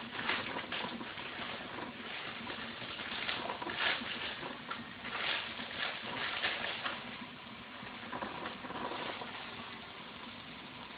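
Chopped onions, garlic and peppers sizzling over high heat: a steady crackle that eases off a little in the last few seconds.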